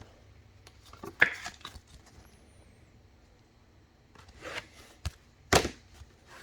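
Trading cards and packs being handled on a table: a few sharp clicks and a short swish of card against card.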